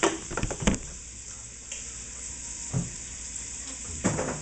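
Diced onion, carrot and celery sautéing in bacon fat in a pot, giving a steady sizzle as the onions turn almost clear. A few sharp knocks in the first second, and one more near the end.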